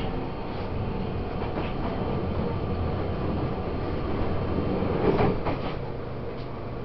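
Running sound of a Taiwan Railways EMU800 electric commuter train heard on board: a steady rumble of wheels on the track with a faint, even motor hum, and a short burst of clattering about five seconds in.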